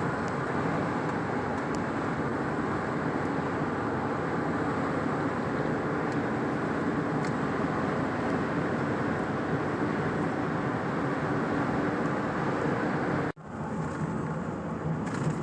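A vehicle driving along: steady road and engine noise, with a brief drop about thirteen seconds in where the recording cuts.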